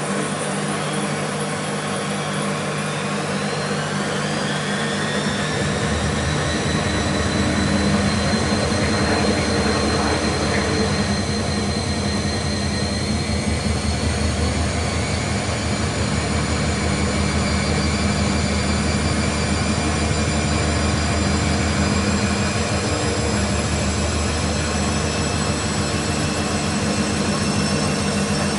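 BEKO WMB 51441 washing machine spinning up: the motor's whine rises over the first few seconds and then holds steady at high speed. A low drum rumble joins about six seconds in.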